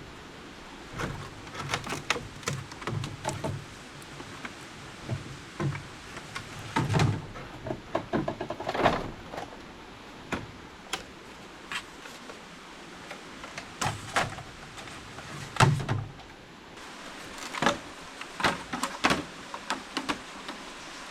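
Irregular knocks, taps and clatters of hand work with bamboo, over a steady background hiss.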